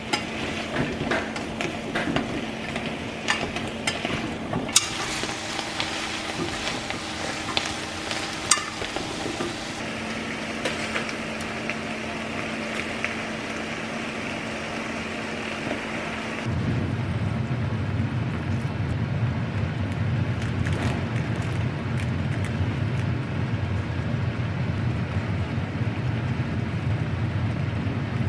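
Potatoes and sliced beef sizzling in a stainless steel pot while being stirred with chopsticks, with scattered light clicks of the chopsticks against the pot over a faint steady hum. About halfway through the sound changes abruptly to a louder, lower steady noise.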